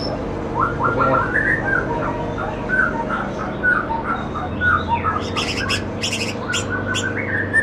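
Songbirds chirping: a run of short, quick notes, joined by sharper, higher-pitched notes from about five seconds in.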